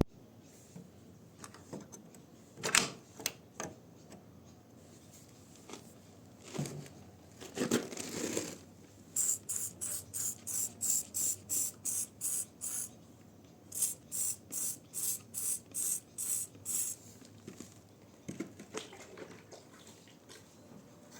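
Hand trigger spray bottle squirted rapidly, about four sprays a second, in two runs of several seconds, after a few handling knocks and rustles.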